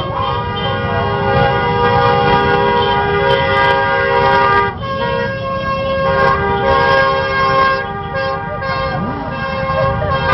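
Several motorbike horns honking together in long held blasts over the low running of motorcycle engines. The horns cut off briefly about halfway through, sound again, then turn to shorter toots near the end.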